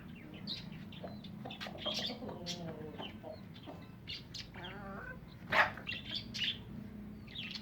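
Mixed calls from chickens and small birds: scattered chirps and tweets with a few clucks, and one louder, sharper call about five and a half seconds in, over a steady low hum.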